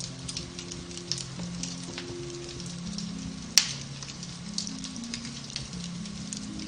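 Beech-wood fire crackling in a fireplace, with scattered small pops and one sharp, louder crack about three and a half seconds in, over soft background music of slow, held low notes.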